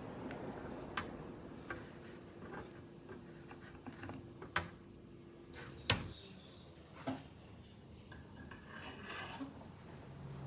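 Scattered light clicks and knocks of hard objects being handled, about half a dozen spread out, over a faint steady hum that stops about six seconds in.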